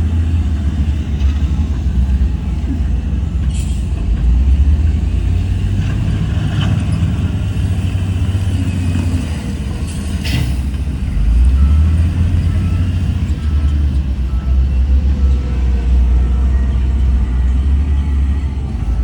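Heavy diesel earthmoving machinery, a bulldozer and dump trucks, running with a deep steady rumble. Two short hisses come about a fifth and about halfway in, and a truck's reversing beeper sounds faintly in the second half.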